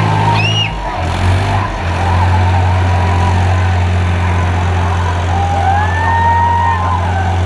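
New Holland tractor engine running at steady revs, a constant low drone that briefly drops and settles again about a second in. Voices call out a few times over it.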